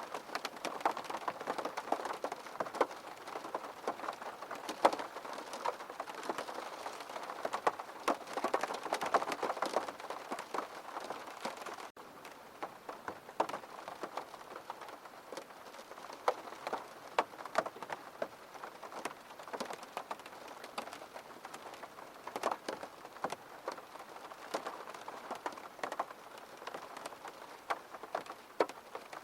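Steady rainfall, with many individual drops ticking sharply close by over the hiss of the rain. About twelve seconds in the sound cuts out for an instant and resumes a little softer, with the drops sparser.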